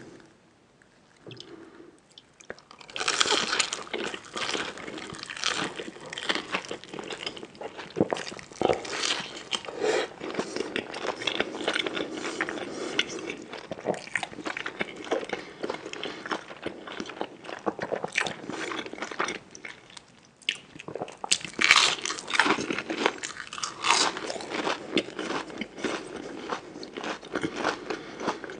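Close-miked eating sounds: crunchy food being bitten and chewed with rapid, irregular crunches. The crunching starts about three seconds in, and the loudest bites come near the end.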